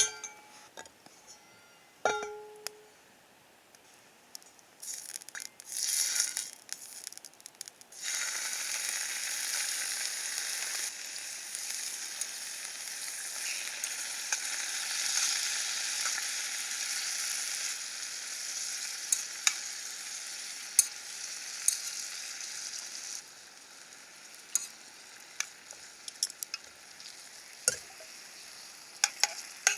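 Two ringing clinks at the start, then eggs and bacon sizzling in a deep campfire frying pan from about eight seconds in, a steady frying hiss that turns quieter about two thirds of the way through, with scattered pops.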